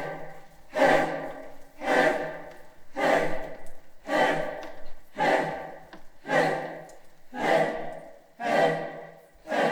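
A chorus of voices chanting together in a steady pulse, one loud call about every second, each dying away before the next.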